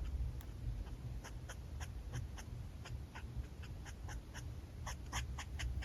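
Alcohol marker nib on paper making a series of short strokes and flicks, about two to four a second, coming faster near the end, over a steady low hum.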